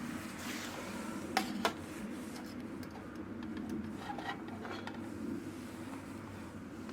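Two sharp clicks in quick succession about a second and a half in, then a few lighter ticks, over a steady low hum.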